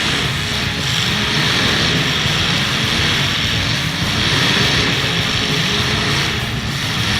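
Several demolition derby cars' engines running loud and steady with open exhausts, a dense rumbling drone without clear single crashes.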